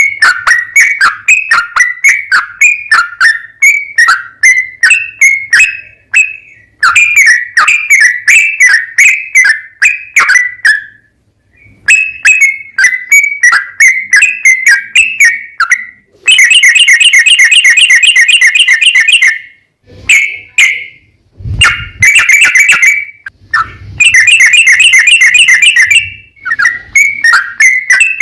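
Yellow-vented bulbul (trucukan) singing loudly: runs of short, bubbly whistled notes, broken twice by a long, rapid rolling trill.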